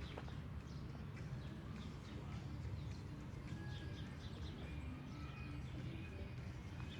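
Outdoor park ambience: a steady low hum with faint, short bird chirps and light footsteps on a path.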